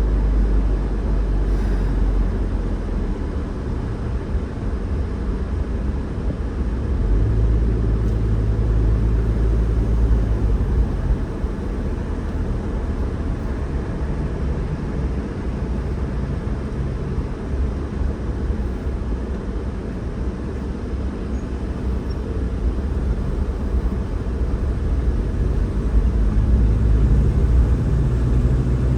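Car being driven: a steady road and engine rumble, with a low hum that swells for a few seconds about a third of the way in and again near the end.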